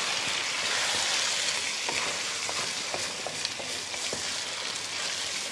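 Chicken pieces frying in hot oil in a steel kadhai: a steady sizzle while they are stirred, with a few light clicks from the stirring.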